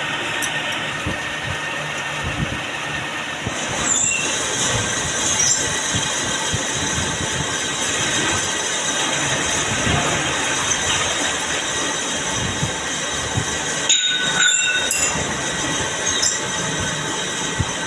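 Lathe machining a metal part, with a steady scraping cutting noise and brief high squeals from the tool.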